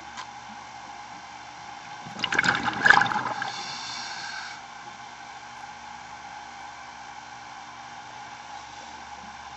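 Underwater bubbling from a scuba diver's exhaled breath: one loud burst of bubbles about two seconds in, lasting a little over a second, then a fading hiss, over a steady underwater background noise.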